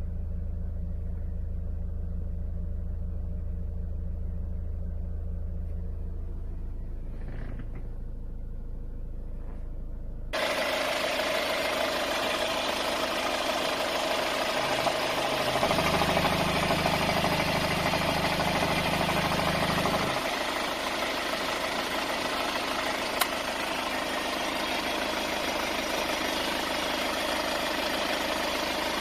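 Car engine idling steadily. For the first ten seconds it is a low hum heard from inside the cabin, then it is louder and fuller with the bonnet open. A deeper hum joins for about five seconds in the middle, and there is a single sharp click a few seconds later.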